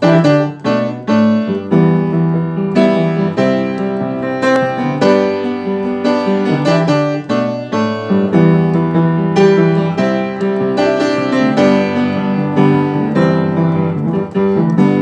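Solo piano playing an instrumental intro: full chords struck in a steady rhythm, about two a second, with a bass line underneath.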